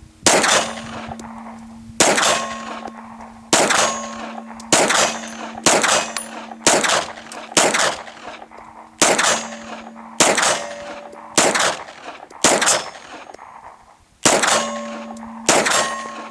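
Glock 17 9mm pistol fired about fourteen times at a steady pace of roughly one shot a second, each shot followed by the ringing of a struck steel target. There is a pause of about two seconds before the last two shots.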